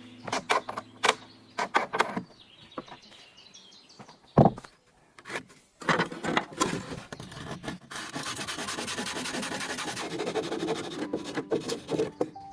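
Wood being worked by hand: several sharp knocks, one loud knock about four and a half seconds in, then scraping with a steady rasping stretch in the middle.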